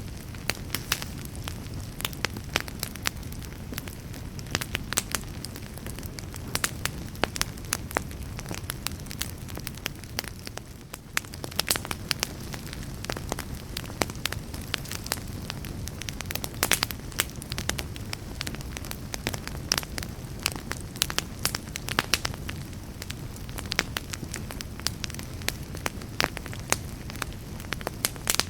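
Fire in a fireplace crackling: irregular sharp snaps and pops over a steady low rumble of the flames, with a brief quieter spell about ten seconds in.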